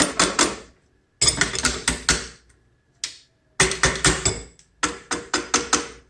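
Nylon-tipped hammer tapping the front barrel band of a Marlin 336 rifle to drive the stubborn band loose. Runs of quick light taps, about four or five a second, broken by short pauses.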